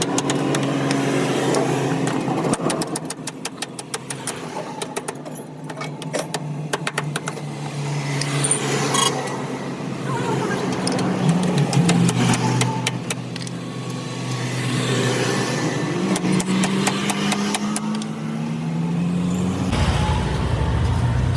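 Vehicle engines running and passing on the road, the engine hum rising and falling, with scattered short metallic clicks and taps. A deeper engine hum sets in near the end.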